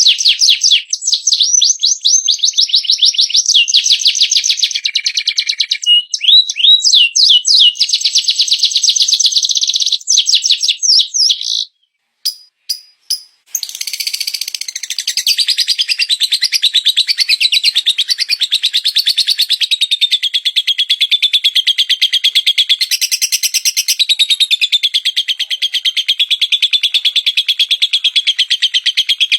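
Recorded songbird song of the kind used for masteran training. It opens with rapid, high chirps and sweeping trills. After a brief break about twelve seconds in, a different bird takes over with one long, fast, wavering high trill.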